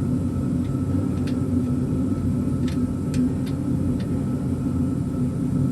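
A steady low hum from some running machine, unchanging in level, with a few faint light clicks scattered through the middle.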